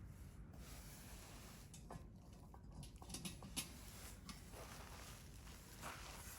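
Wood campfire crackling softly, with a few sharper pops about three seconds in, over a low steady rumble.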